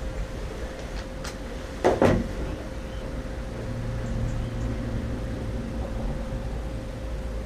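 A few knocks, the loudest a cluster about two seconds in, over a steady low hum with a faint steady tone.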